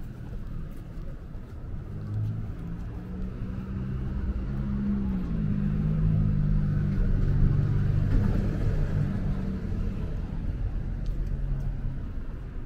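A motor vehicle's engine running as it passes on the street, a low rumble that rises in pitch about five seconds in and is loudest around the middle before fading.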